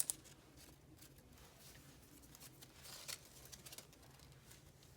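Faint handling noises of paper and tape: scattered light clicks and rustles, with a sharper click at the start and a short cluster of crinkles about three seconds in.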